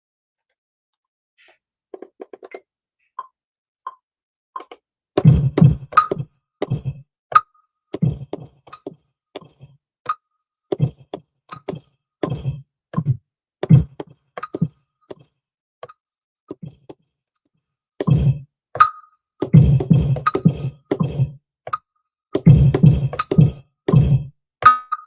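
Drum sounds played from a Native Instruments Maschine MK3: a few faint blips at first, then from about five seconds in irregular, punchy kick-and-snare hits tapped out in stops and starts rather than as a steady loop, with a short pause before they pick up again more densely.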